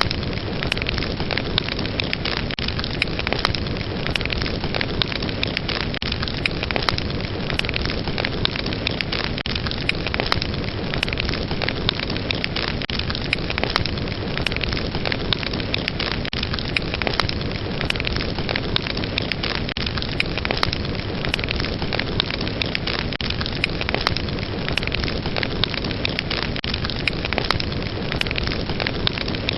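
Fire burning with a steady hiss and frequent crackles and pops.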